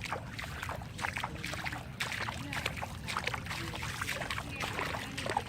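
Floodwater sloshing and splashing in irregular strokes as someone wades through water about knee-deep in a flooded street.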